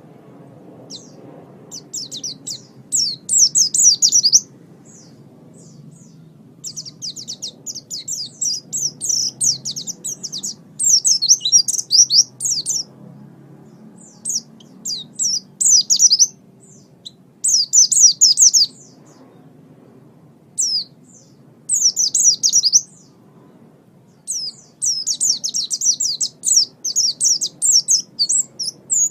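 A small songbird singing a high, rapid twittering song. It comes in bursts of quick chirps lasting about one to two seconds each, with short pauses between them.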